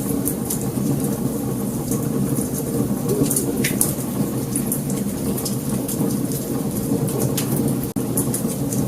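Wood fire burning: a steady low rush of flames with sharp crackles and pops scattered throughout, and a momentary dropout about eight seconds in.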